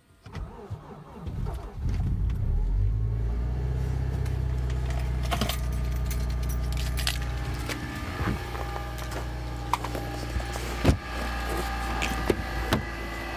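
2013 Hyundai Santa Fe Sport's 2.0-litre turbocharged four-cylinder cranking briefly and catching about two seconds in on a cold start at -25 °C with no block heater, then running at a steady idle. Sharp clicks and knocks sound now and then over the idle.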